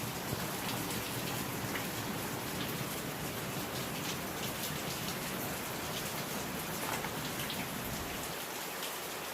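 Steady hiss of rain with faint scattered drip ticks.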